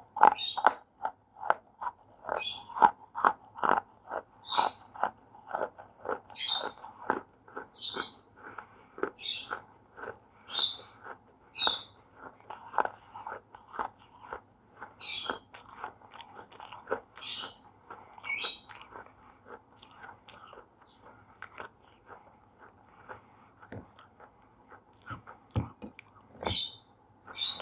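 Slate pencil being bitten and chewed by a person, a steady run of brittle crunches about one to two a second.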